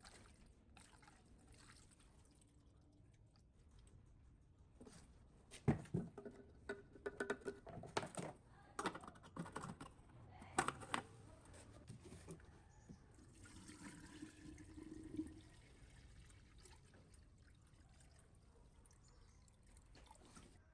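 Water splashing and pouring in short irregular bursts, loudest from about six to eleven seconds in.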